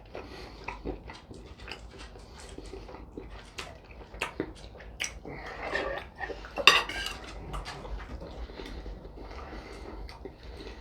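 Knife and fork clinking and scraping on a plate while a steak is cut, with many short clicks and a sharper, louder clink about two-thirds of the way through.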